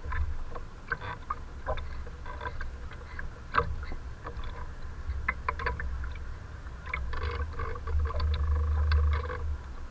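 Wind buffeting the microphone as a low rumble, gusting harder near the end, with short slaps and splashes of choppy canal water.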